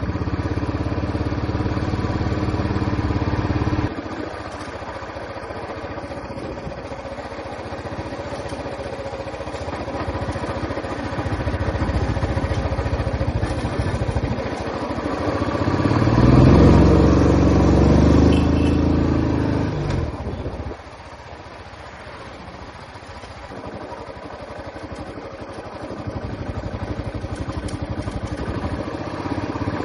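Royal Enfield Classic 350's single-cylinder engine and exhaust running under way on the highway. The throttle eases off about four seconds in and the engine builds to its loudest, pulling hard, in the middle. It drops back sharply about two-thirds of the way through and picks up again near the end.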